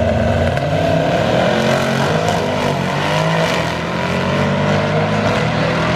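Car engine running loudly, a steady low drone whose pitch wavers slightly.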